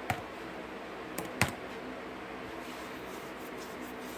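A few isolated clicks of laptop keys: one just at the start, and a sharper one about a second and a half in, over a steady low hum.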